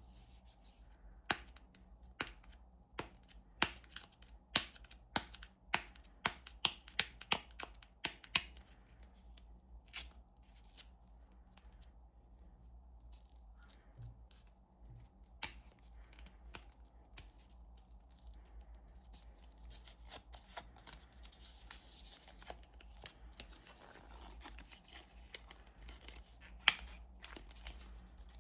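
Soap being cut and handled: a run of sharp, crisp cuts at about one or two a second for the first eight seconds, then sparser ones. From about twenty seconds in comes a faint crackly rustle, with one sharp snap near the end.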